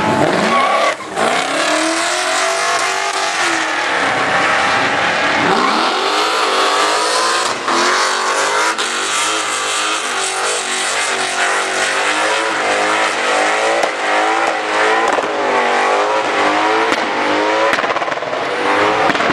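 Muscle car engine revving hard through a burnout, its tyres spinning and squealing. The revs dip and climb in the first few seconds, then stay high and waver up and down, over a steady hiss of spinning tyres.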